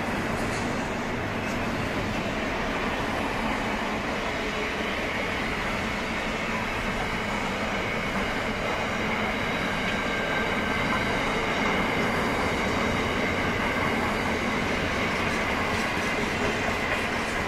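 Container freight train wagons rolling past steadily, a continuous rumble and rattle of wheels on rail with a faint high steady tone running through it.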